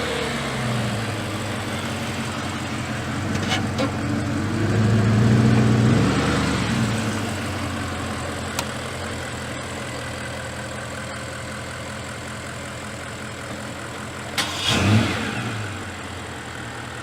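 Bentley Continental GT V8 S's twin-turbo V8 with sports exhaust, revved and idling: a short blip near the start, a few crackles about three and a half seconds in, a longer rev that rises and falls around five to six seconds in, then a steady idle. Near the end comes one sharp blip with crackles from the exhaust.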